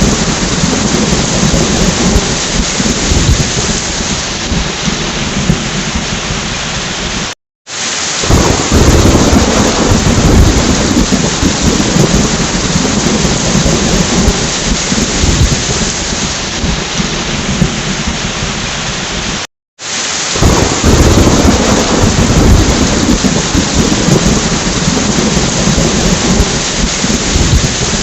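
Heavy, steady rain with low rolling thunder rumbling underneath. The sound cuts out abruptly for about half a second twice, about seven seconds in and again near the twenty-second mark, each time picking up again with the rumble.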